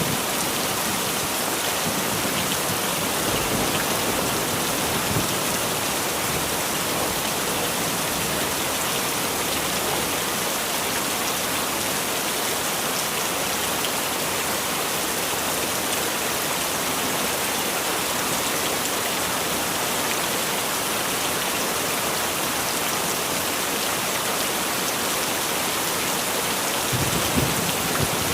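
Heavy rain falling steadily, a dense even hiss of drops on surfaces, with a brief low rumble near the end.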